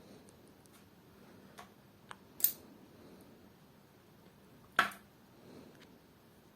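A few light clicks and two sharper clicks, about two and a half and five seconds in, from the small metal parts of a hydraulic valve lifter being handled during cleaning.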